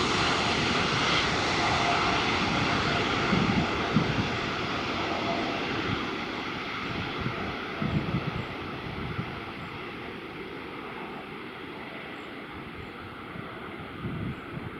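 Jet engines of a Boeing 747-8F freighter (four GEnx turbofans) rumbling and steadily fading as the aircraft climbs away, the high-pitched part dying out first. A few brief low thumps from wind on the microphone.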